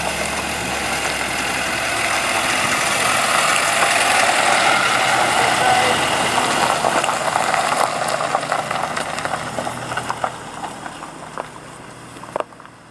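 A car's engine running as the vehicle drives past, growing louder to about four or five seconds in, then fading away as it moves off.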